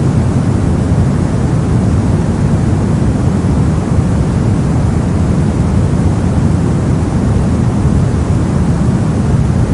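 Steady soft noise, like white noise but heavy in the low end and dull at the top, with no change.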